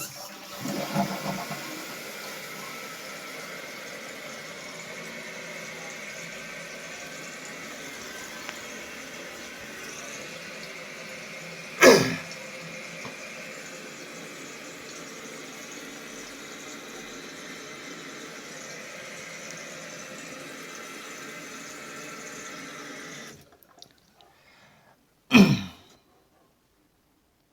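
Jacuzzi Lyndsay toilet flushing, then its tank refilling: a rush of water at first, then a steady hiss of the fill valve that shuts off about 23 seconds in. A short loud sound cuts in about halfway through, and another comes just after the fill stops.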